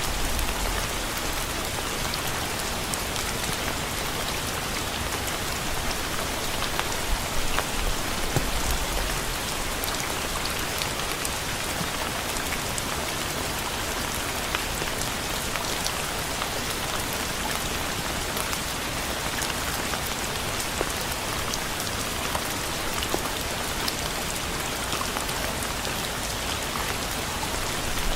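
Steady rain falling on a surface, a dense patter of individual drops, with a few heavier low thuds near a third of the way through.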